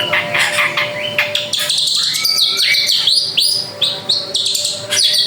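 Drongo singing a fast, varied song of chirps, whistles and rising and falling notes.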